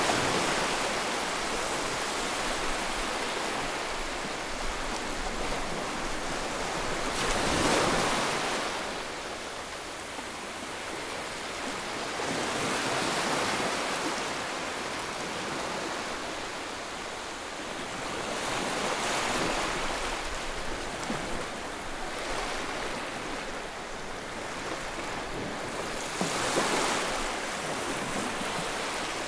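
Ocean waves breaking and washing in surf, with a wave rising and falling about every six seconds and the wash continuing between them.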